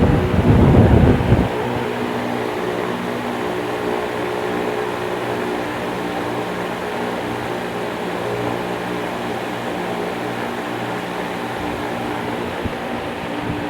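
Arge 60 cm chrome 200 W oscillating wall fan running: a steady motor hum under the whoosh of the blades. For about the first second and a half its air stream buffets the microphone with a low rumble.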